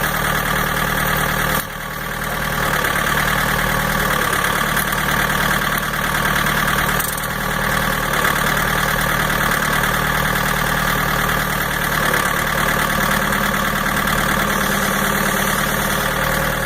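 Skid steer engine running steadily, with two brief dips in level early on and about seven seconds in.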